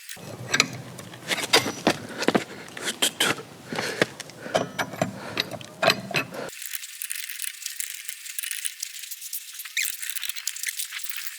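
Irregular metallic clinks, knocks and rattles of wheel nuts and a wrench while changing a car's tyres.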